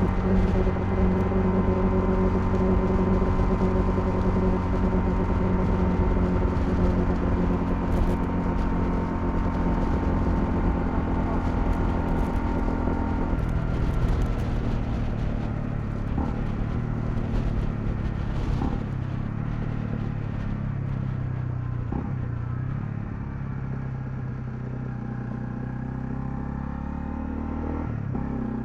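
Honda CL250's single-cylinder engine running on the move at a steady pitch. About halfway through its note drops and it settles lower and a little quieter, with a few faint knocks afterwards.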